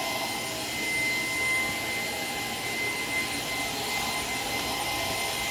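Shark PowerDetect vacuum cleaner running steadily, a high whine over the rush of suction air as its crevice tool is drawn along a baseboard.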